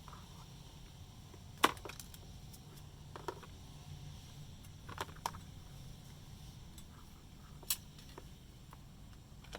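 Scattered sharp clicks and taps of small parts being handled, about five or six in all, the loudest about one and a half seconds in, over a steady low hum.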